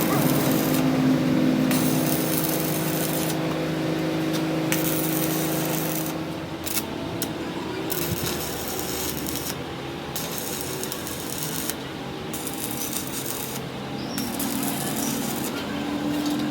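Workshop machine running with a steady hum for about the first six seconds, then a rougher, scratchier working noise, with the hum coming back near the end.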